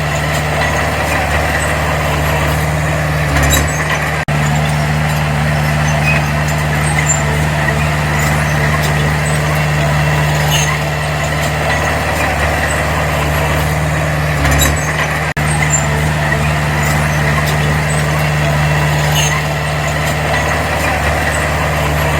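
Diesel engine of a D20P bulldozer running steadily at a constant pitch, with a couple of brief low thumps.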